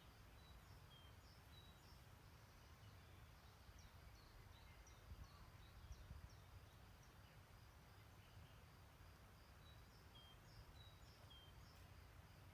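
Faint distant birdsong: scattered short, high chirps and whistles over a low steady rumble.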